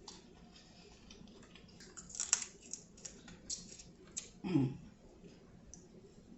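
Close-up eating sounds from a seafood boil: crab-leg shells crackling and clicking as they are handled and picked at, with wet mouth clicks. The densest crackling comes about two seconds in, and a short hum of the voice comes about four and a half seconds in.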